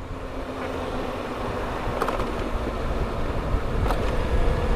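Honda CBR1000RR's stock inline-four engine running steadily while riding, heard through a microphone inside the rider's helmet with wind rushing over it.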